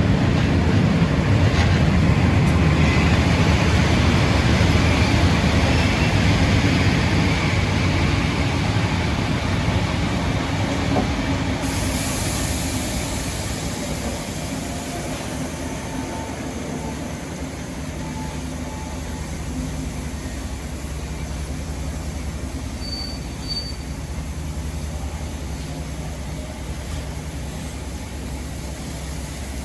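Train running on rails, a heavy low rumble that is loudest in the first half and gradually fades away over the second half.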